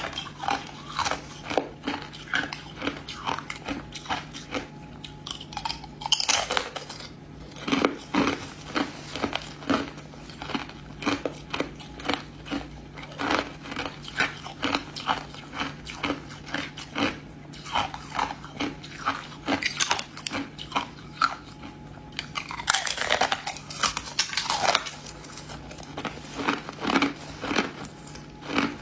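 Ice being bitten and chewed close to the microphone: a steady run of sharp crunches, about two a second, with louder bursts of crunching about six seconds in and again about twenty-three seconds in.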